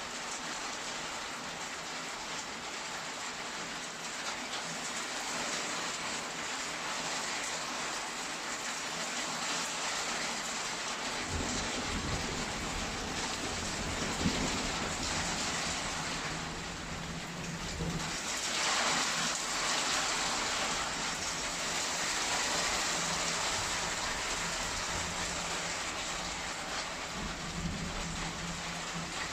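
Steady heavy rain hissing, with low rolling thunder rumbling in about a third of the way through and swelling somewhat louder past the middle.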